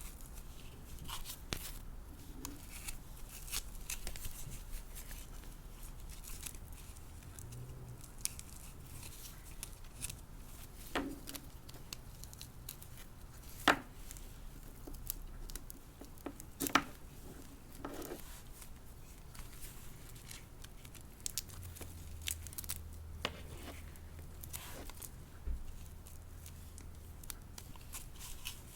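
Hands handling a fashion doll and its packaging: scattered light clicks, taps and soft rustles, with a couple of sharper clicks partway through.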